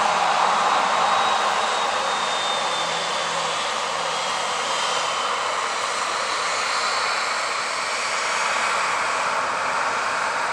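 Jet airliner engines running, a steady roar with a faint high whine that slides down a little in pitch during the first few seconds.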